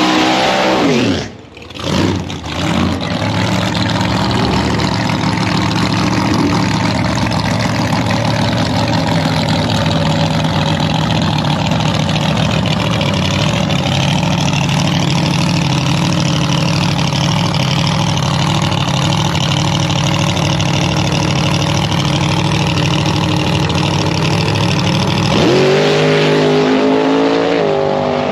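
Supercharged alcohol-burning small-block Chevy V8 running loud and steady for most of the time, after a brief dip in level at the start. Near the end it revs up sharply.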